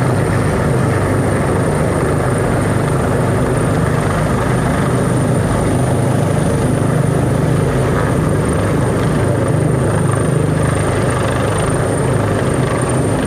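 Helicopter hovering close by, its rotor and engine running with a loud, steady drone and a thin high whine above it.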